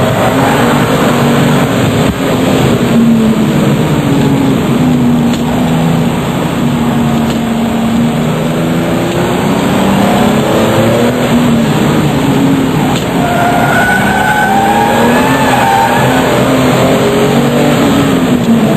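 RUF CTR Yellow Bird's twin-turbocharged flat-six engine running hard, its pitch rising and falling with the revs as the car accelerates, brakes and changes gear.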